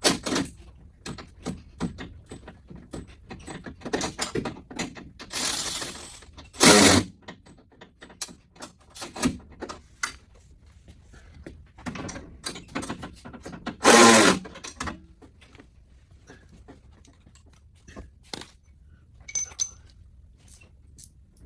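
Scattered clinks, clicks and knocks of tools and metal and plastic parts being handled while a truck's front bumper and grille are worked on, with two short, loud bursts, one about a third of the way in and one about two thirds in.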